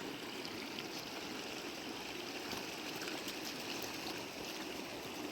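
River water running steadily over stones, a continuous rushing with faint small splashes.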